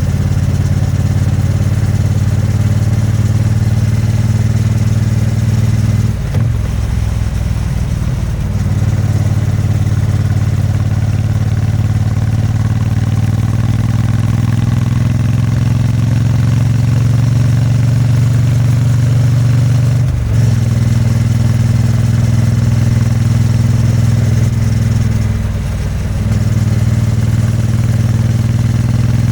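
Exhaust and engine of a 2022 Triumph Bonneville T100's 900 cc parallel twin, running steadily under way, with three brief dips in the note about 6, 20 and 26 seconds in, as at a gear change or throttle lift.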